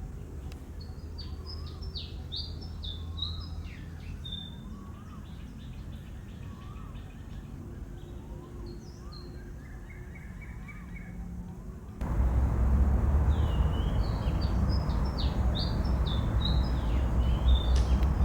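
Birds chirping in quick, repeated high calls at a nest, over a steady low hum. About twelve seconds in, a louder low rumbling noise starts abruptly and the chirping carries on above it.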